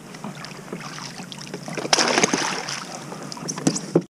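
Water splashing and dripping against a kayak as a crab trotline is pulled up and run along the hull, with a few light knocks. The sound cuts off suddenly near the end.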